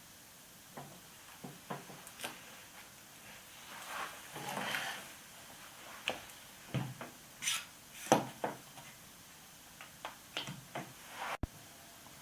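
Scattered light knocks and clicks of wood pieces and tools being handled at a workbench while a mahogany strip is glued on, with a brief scraping rustle about four to five seconds in.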